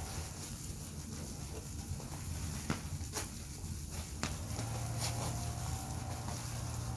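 Wood fire crackling, with a few sharp, separate pops and snaps over a steady low hum.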